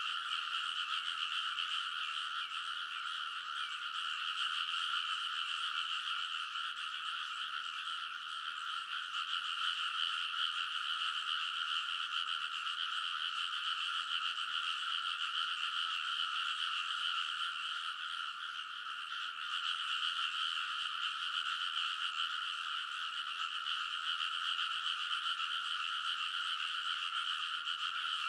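A dense chorus of many frogs calling together in a rice paddy, their croaks overlapping into one unbroken din.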